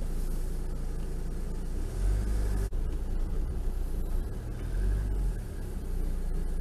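Car engine running, heard from inside the cabin, as a low steady rumble while the car sits and then creeps forward at walking pace. The rumble swells louder twice and breaks off abruptly for an instant under three seconds in.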